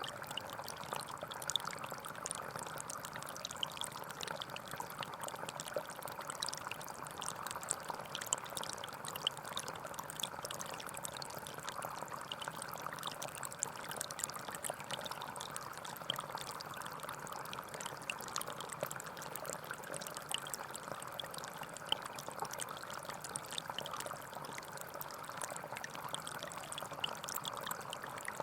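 Gentle forest stream: running water flowing steadily, with a constant rush and fine splashing.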